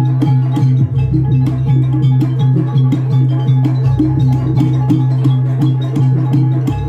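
Live Banyuwangi gamelan music: a repeating melodic figure of short pitched notes over a sustained low tone, with drums and rapid, regular percussive ticks.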